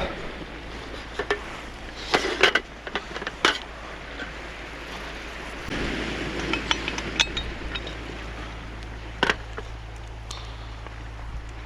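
A series of light, sharp clinks and taps, some in quick clusters, over a steady background hiss.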